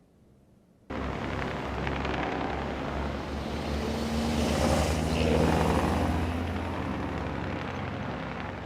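Engine noise of a passing vehicle. It starts abruptly about a second in, swells to its loudest around the middle, then eases off.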